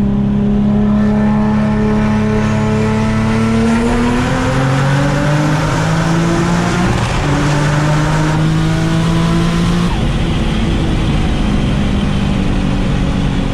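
Turbocharged VQ35 V6 of a 2004 Infiniti G35 coupe running hard under acceleration, its pitch climbing, with a break and drop about seven seconds in, another change around ten seconds in, then running steadier. It runs with an exhaust leak before the turbo, which the owner says bleeds off boost and makes it sound rough.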